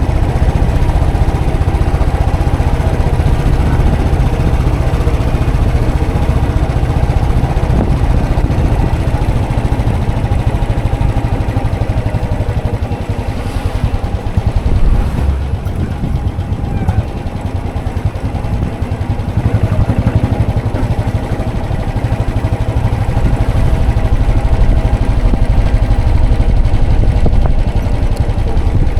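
Royal Enfield Classic 500's single-cylinder engine running under way. It eases off for a few seconds in the middle, then pulls again.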